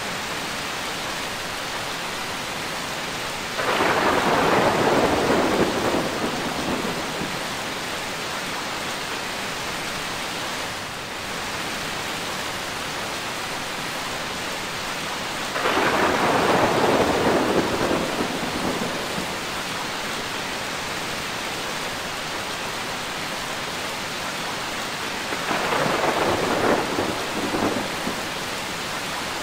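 Steady rain with three rolls of thunder, about 4, 16 and 26 seconds in, each swelling up over the rain for two to three seconds and fading.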